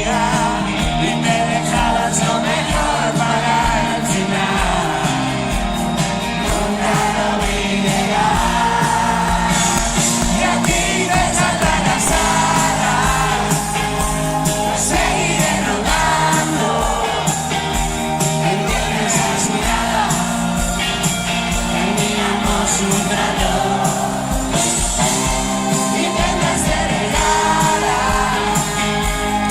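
Live pop-rock band performing a song with a male lead singer, loud and continuous.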